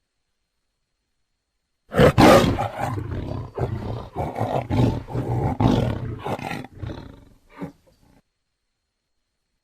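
Siberian (Amur) tiger roaring: a loud roar starts suddenly about two seconds in and trails off into a run of shorter, weakening calls about two a second over some five seconds, with silence before and after.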